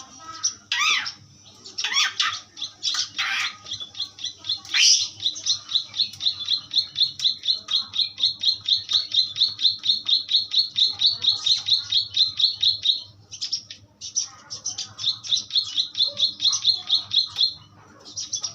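Asian pied starling singing: a few loud whistled sweeps, then a long, fast run of repeated high notes at about five a second. After a brief break a second run follows.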